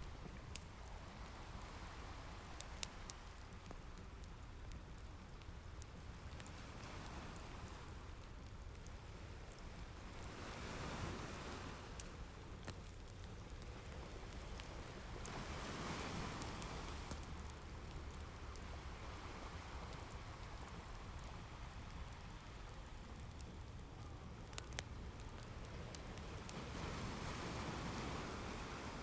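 Ocean waves washing in, a soft hiss that swells and fades in slow surges, mixed with the sparse sharp pops and crackles of a wood fire.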